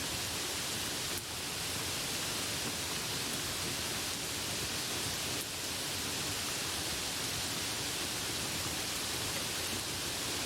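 Steady, dense rain hiss with no single drops or thunder standing out.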